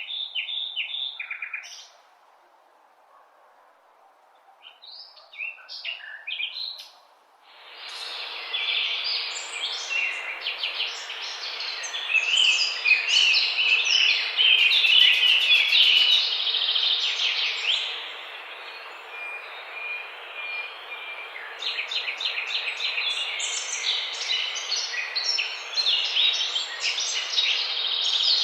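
Many birds chirping and calling at once in an aviary. A few separate chirps at first, then a dense chorus of overlapping high chirps and trills starts abruptly about seven seconds in and carries on.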